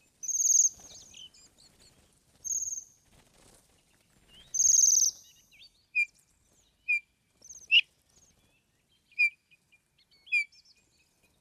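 Songbirds singing: three loud, high, buzzy trilled phrases in the first half, then short single chirps about once a second.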